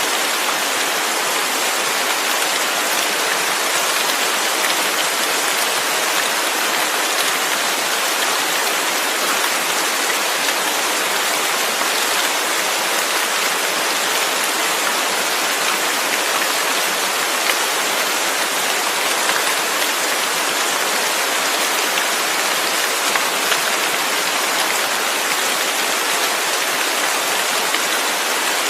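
Steady, dense rain falling, an even hiss of many drops with no distinct individual impacts or thunder.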